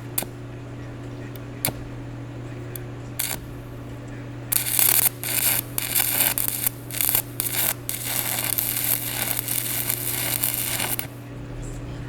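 Electric arc welding on a driveshaft: a crackling arc struck in several short bursts, like tack welds, then held for a longer run of about three seconds, over a steady low hum.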